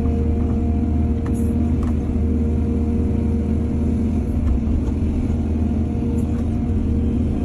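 Excavator's diesel engine running steadily under load, with a few faint knocks.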